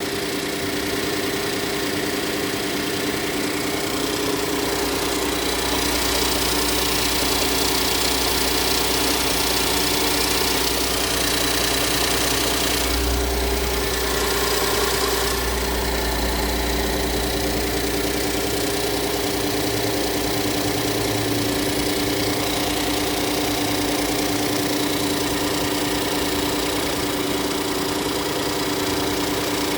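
Hyundai Grandeur HG 3.0's V6 engine idling steadily, with a deeper low hum that comes in after a few seconds and fades again past the middle.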